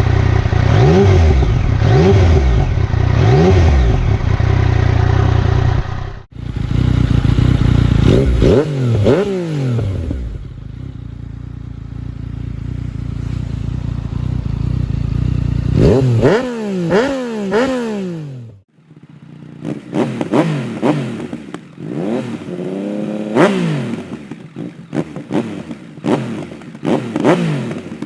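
Yamaha XSR 900's 890 cc three-cylinder engine revved through aftermarket full exhaust systems, in several separate clips with sudden cuts between them: repeated quick blips, each rising and falling in pitch, with a steady idle between some of them.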